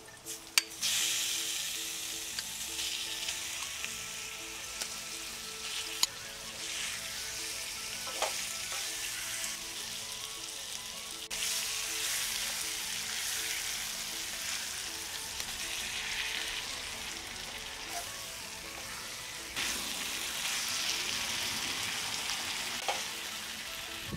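Onions and then masala-coated chicken sizzling in hot oil in a kadai, stirred with a wooden spatula. A few sharp clicks of the spatula against the pan stand out from the steady sizzle.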